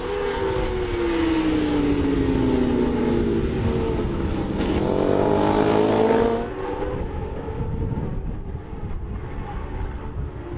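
Racing motorcycles going past at speed on a race circuit. One engine note falls in pitch as it goes by, then several engine notes rise together and cut off abruptly about six and a half seconds in, leaving fainter engine noise further off.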